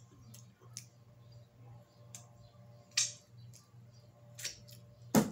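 Scattered sharp clicks and crackles of dessert being handled and eaten close to the microphone, a handful of them with the loudest near the end, over a steady low hum.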